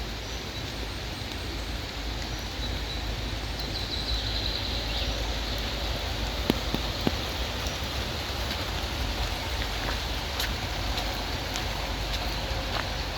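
Steady rain falling, with a few sharper drop taps here and there, most noticeably around the middle and near the end. A low steady rumble runs underneath.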